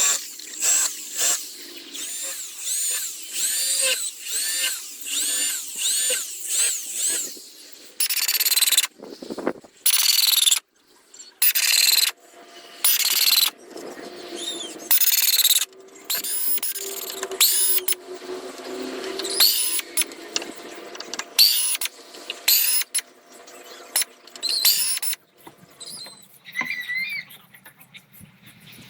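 Small power carving tool cutting wood in short, repeated passes, its high whine rising and falling with each pass: about two a second at first, then longer bursts with brief pauses.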